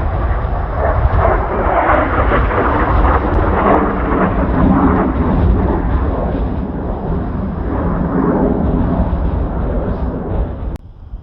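Roar of Blue Impulse Kawasaki T-4 jets flying over, mixed with strong wind buffeting the microphone. The noise drops away sharply for a moment near the end.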